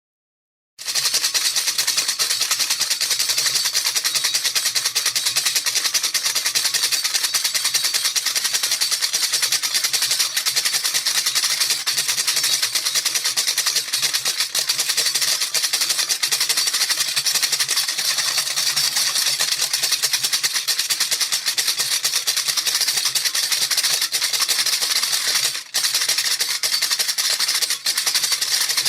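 A rattle shaken fast and continuously, its beads making a dense, hissing patter that starts about a second in, with a brief break near the end.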